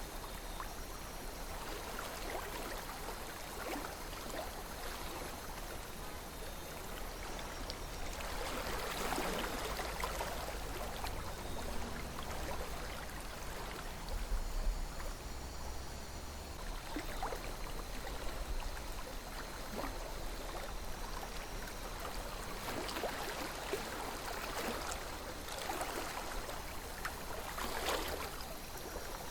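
River water flowing over stones, a steady babbling with small splashes and gurgles that swell now and then.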